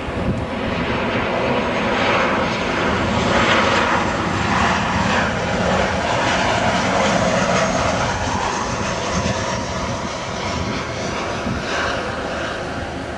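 Boeing 737's turbofan engines as the airliner passes on landing, a steady jet rush that swells to its loudest a few seconds in and then slowly fades.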